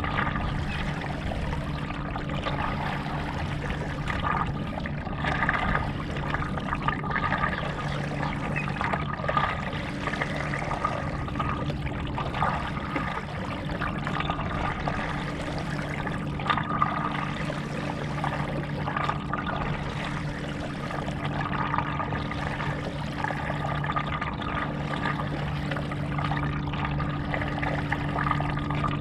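Stand-up paddle strokes through lake water, a surge of splashing and trickling every couple of seconds as the blade dips and pulls, over a steady low hum.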